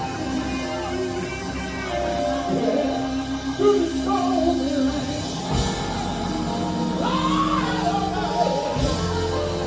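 Gospel quartet singing lead and harmony over a live backing band, in a large hall.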